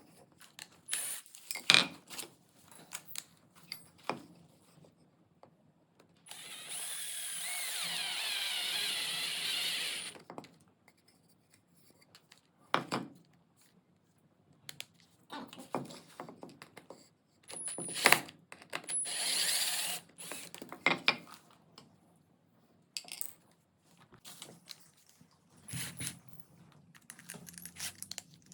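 12-volt cordless drill running for about four seconds, its motor whine wavering in pitch, with sharp clicks and knocks of handling before and after and a shorter burst later on.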